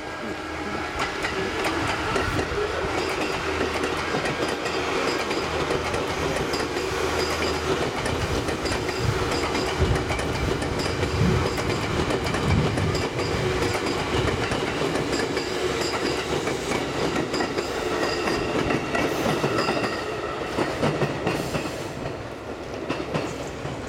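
Seibu 3000 series electric multiple-unit train pulling out and running past at close range: a steady running hum with wheels clacking rhythmically over the rail joints, easing slightly near the end.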